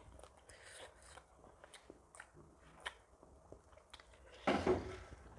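Close-up eating sounds: chewing with scattered small mouth clicks, then a louder, longer crunching noise about four and a half seconds in.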